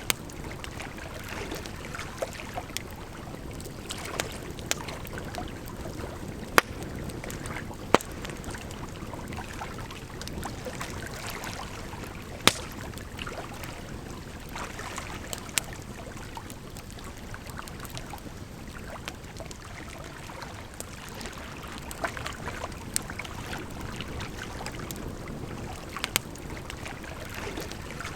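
Campfire crackling, with sharp pops of burning wood scattered irregularly, a few much louder than the rest, over a steady rush of flowing water.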